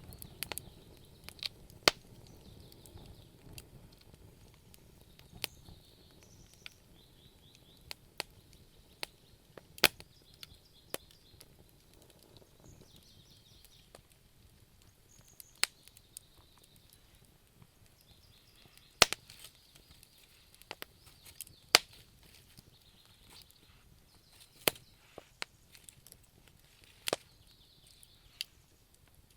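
Wood fire crackling in a fireplace, with irregular sharp pops and snaps of varying loudness over a low steady hiss.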